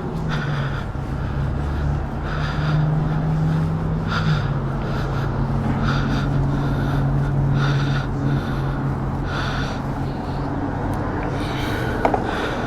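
A motor running steadily with a low hum that drops slightly in pitch about four seconds in, and a soft whooshing pulse repeating about once a second.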